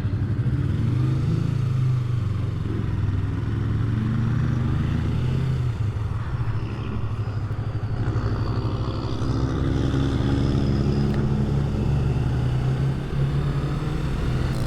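Yamaha MT-03 motorcycle engine pulling away and accelerating, its note rising, falling back and rising again as it gathers speed.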